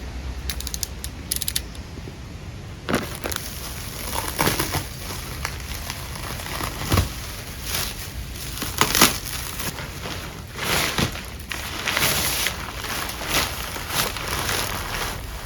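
Packaging on a large package being torn and pulled open, with irregular crackling and crinkling.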